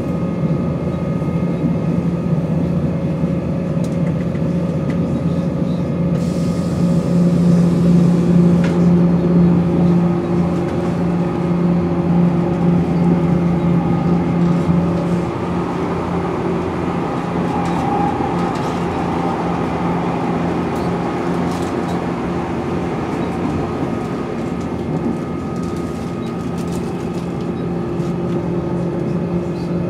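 Interior of a Class 170 Turbostar diesel multiple unit under way: the underfloor diesel engine and driveline drone with a steady whine over rail and running noise. The whine is louder from about 7 to 15 seconds in, then eases slightly. Its cause is uncertain.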